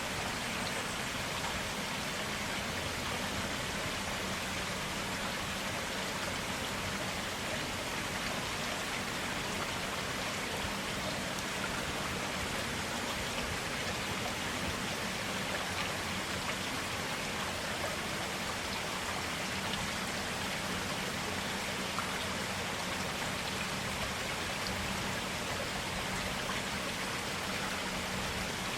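Flowing water: a steady, even rush of clear running water that goes on without a break.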